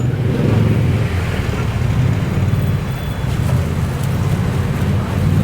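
Steady low rumble of motor vehicle engines from road traffic.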